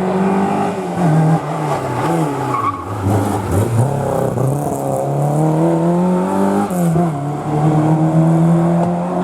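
Historic rally car's engine on a hairpin: its pitch falls as the car slows over the first few seconds, then rises as it accelerates away, with a quick drop in pitch at an upshift about seven seconds in before it climbs again.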